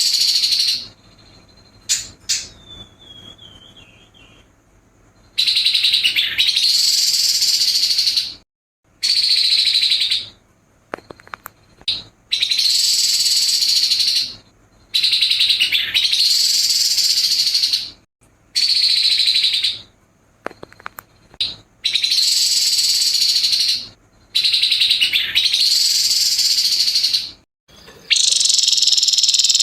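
Grey-headed babbler singing harsh, rapid chattering phrases in repeated bursts of one to three seconds with short pauses between. Near the end a steadier, continuous high sound takes over.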